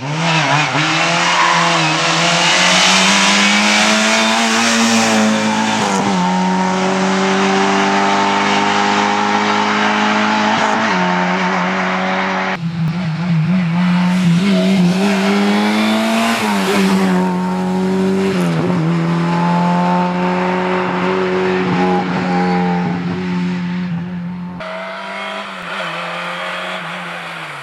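Lada 2107 rally car's four-cylinder engine driven hard, revving up through the gears and dropping sharply at each shift several times, over heavy road and tyre noise.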